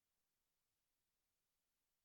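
Near silence: the soundtrack is essentially empty, only a very faint hiss.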